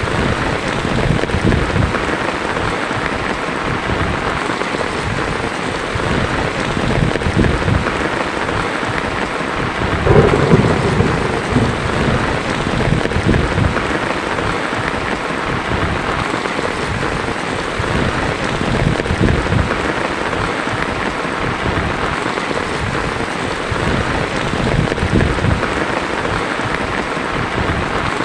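Heavy rain falling steadily on a tin roof, with a rumble of thunder about ten seconds in, the loudest moment.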